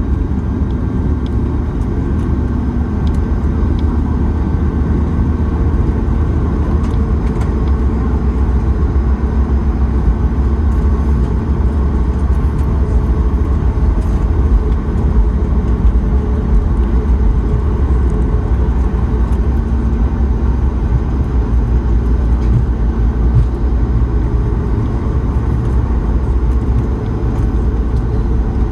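Steady low rumble inside the cabin of a Boeing 737-9 MAX, even throughout with no distinct events.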